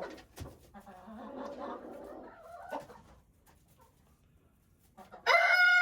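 Chickens clucking softly in the coop, then a rooster crows loudly near the end.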